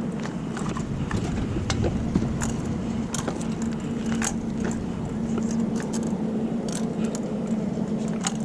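A steady low mechanical hum with low rumble under it, overlaid by many scattered sharp clicks and light rattles from litter being picked up off the pavement.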